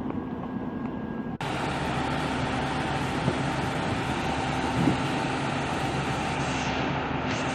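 Passenger train hauled by a WAP-5 electric locomotive: a steady rumble with a constant hum. About a second and a half in, the sound abruptly jumps louder and brighter.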